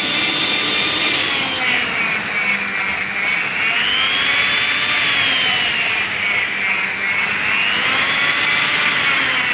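Silvercrest SKM 550 A1 food processor motor running on its speed regulator at the second setting: a loud, high whine that rises and falls in pitch several times.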